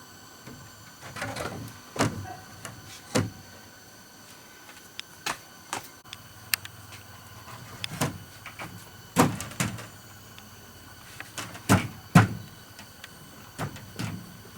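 Irregular sharp knocks and taps, about a dozen, the loudest two near the end, typical of wood being worked or handled, over faint steady high-pitched tones.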